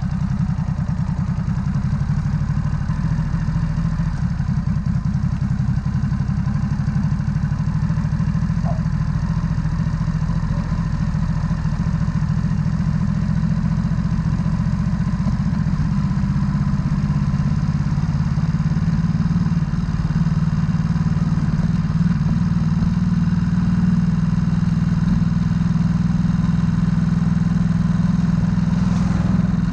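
Ducati Supersport S's 937 cc L-twin engine running steadily as the motorcycle pulls away and rides at low town speed, heard from on the bike.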